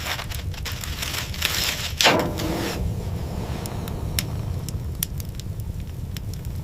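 Rustling and crunching for the first few seconds, with one sharper knock about two seconds in. Then a wood fire crackles with scattered sharp pops over a steady low rumble.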